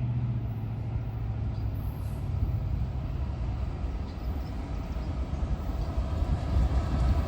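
Norfolk Southern freight train approaching, the low rumble of its diesel locomotives growing louder toward the end.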